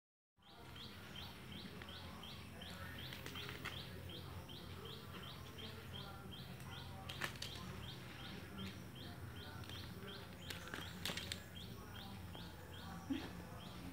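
A bird calling a short, high, upward-hooked chirp over and over, evenly about three times a second, over a low steady background hum.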